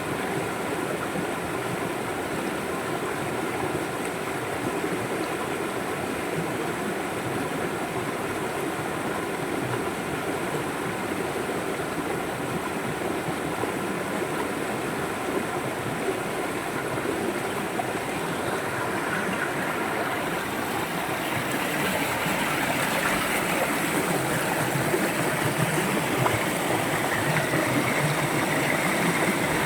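River water flowing in a steady rushing wash, growing louder and brighter about two-thirds of the way through.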